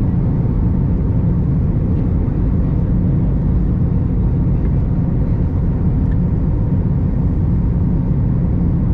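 Steady cabin rumble inside an Airbus A321 airliner, its engines and airflow heard from a window seat, with a faint steady tone above the rumble.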